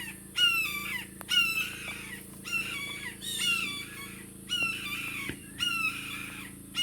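Blue jays giving harsh, scolding jay calls, a series of short falling cries about once a second, while mobbing a red-tailed hawk.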